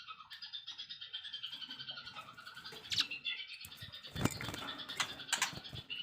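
Songbirds chirping and trilling rapidly in a dense, high-pitched run of notes, broken by a few sharp clicks about three, four and five seconds in.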